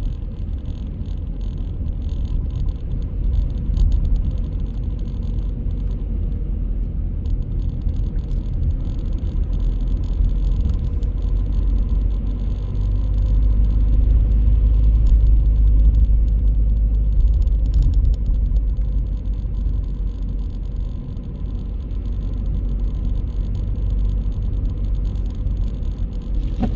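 A car driving through city streets: a steady low rumble of engine and road noise, swelling a little louder about halfway through.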